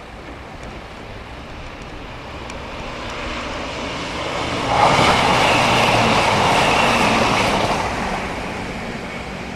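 A diesel multiple unit passing at speed on the main line. It grows louder as it approaches, is loudest as it passes about five seconds in, and fades away over the last couple of seconds.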